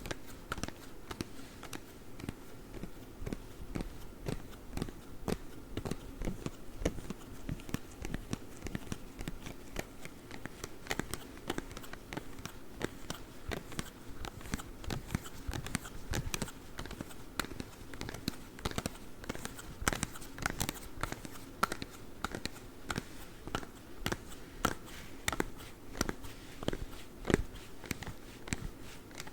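Claw gloves scratching: a dense run of quick scratches and clicks, several a second, with no pause.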